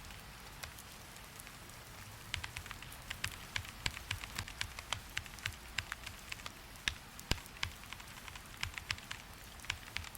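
Typing on a computer keyboard: irregular key clicks, sparse at first and quickening about two seconds in, over a steady hiss of rain.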